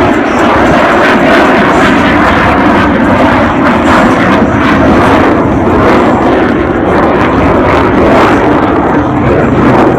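Jet engines of a Blue Angels F/A-18 Hornet passing by, a loud, steady jet noise.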